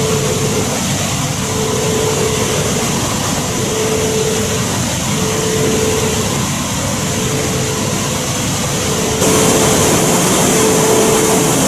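Shinkansen running at speed, heard inside the passenger car as a steady rushing noise with a faint hum. The noise steps up abruptly about nine seconds in.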